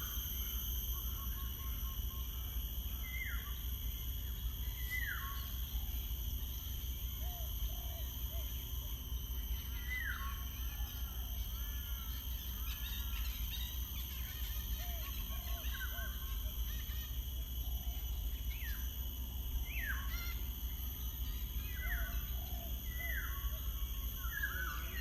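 Birds calling outdoors: short notes falling in pitch repeat every second or few, with softer lower notes between them, over a steady low rumble and a thin high hiss.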